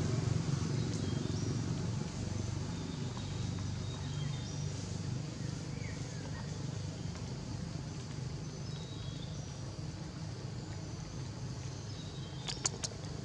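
A vehicle engine runs steadily and gradually grows quieter. Short bird chirps come and go over it, and a few sharp clicks sound near the end.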